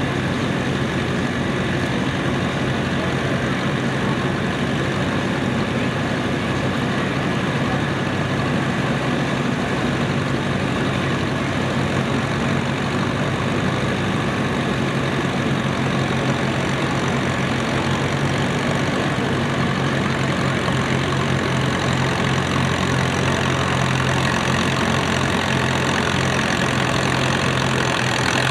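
A 1953 Case DC farm tractor's engine running steadily under load while it pulls the weight sled, getting a little louder toward the end.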